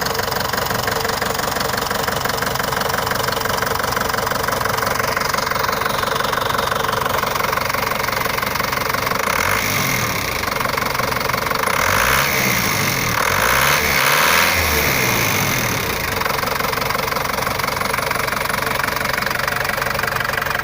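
Ford Transit 'krab' 2.5 diesel engine running at idle, revved up and back down a few times in the middle.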